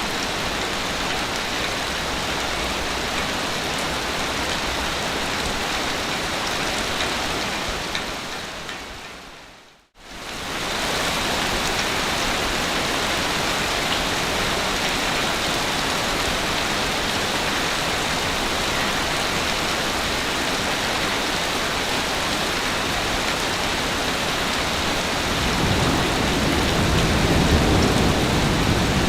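Steady, even hiss of water noise, either rain or surf. It fades out to silence about ten seconds in and comes straight back, and a deeper rumble builds near the end.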